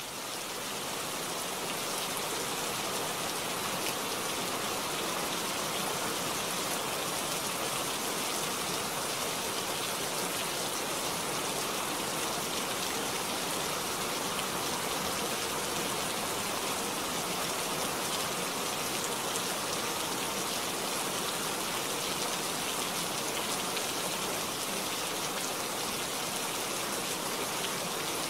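Steady rain falling, an even unbroken hiss that fades in over the first couple of seconds and then holds constant.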